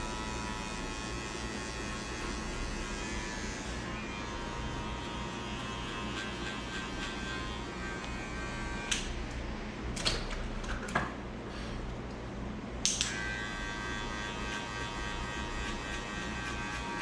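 Electric hair clippers running with a steady buzz while fading hair. About nine seconds in the buzz stops with a click, a few more clicks follow, and it starts again with a click about four seconds later.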